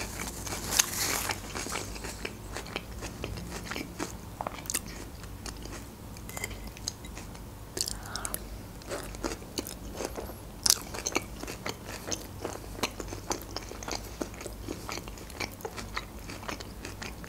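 Close-miked crunching and chewing of crisp Caesar salad, a dense run of irregular sharp crunches, the loudest about ten and a half seconds in. A paper napkin rustles briefly at the start.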